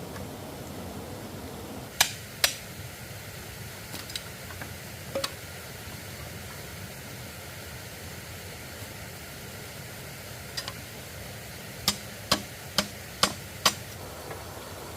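Sharp knocks over a steady background hiss: two about two seconds in, a few fainter ones, then a run of five evenly spaced knocks, about two a second, near the end.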